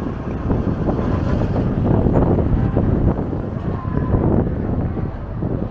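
Strong wind buffeting the microphone: a loud, uneven rush with most of its weight in the low end.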